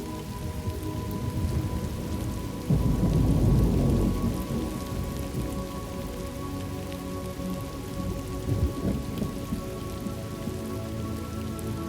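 Steady rain falling, with a rumble of thunder that breaks in suddenly about three seconds in and dies away over a couple of seconds, and a smaller rumble later on.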